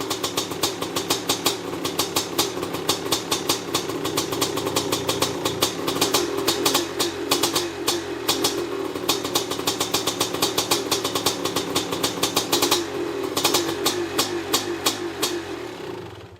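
1993 Maico 500 two-stroke single-cylinder dirt bike engine running after a successful start on its Bing carburettor, firing with uneven sharp pops. It dies away near the end.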